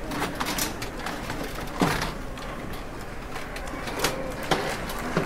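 Birds calling: a few short scattered calls over steady outdoor background noise.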